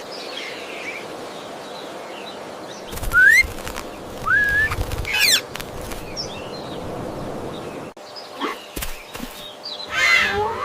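Birds giving short rising chirps over a steady background hiss, with a few loud rustling bursts of wing flapping.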